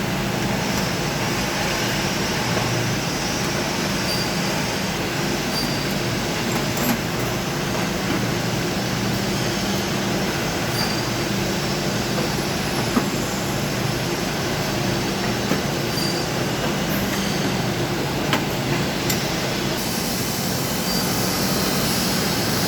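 Steady loud machine drone with a low hum and a few faint clicks.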